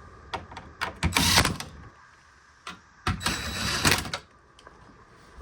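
A few clicks, then two short runs of a power driver, the second longer, as it retightens the screw on the freezer drawer's realigned steel slider bracket.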